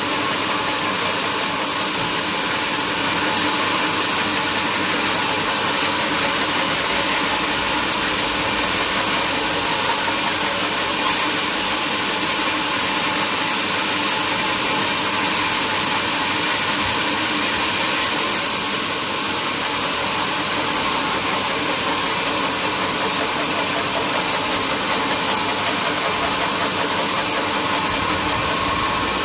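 Sawmill machinery running steadily: a continuous loud hiss over an even mechanical hum, with a slight change in tone about two-thirds of the way through.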